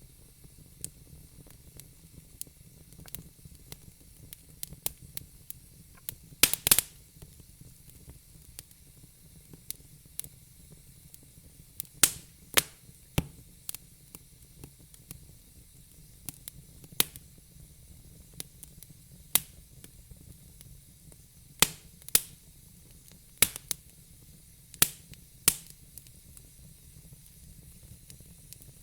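Wood fire crackling in a fire pit, with irregular sharp pops and a handful of louder snaps over a faint steady hiss.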